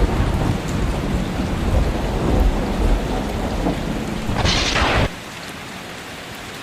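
Rain falling with a heavy, rolling thunder rumble; about five seconds in the rumble cuts off abruptly, leaving a steady rain hiss.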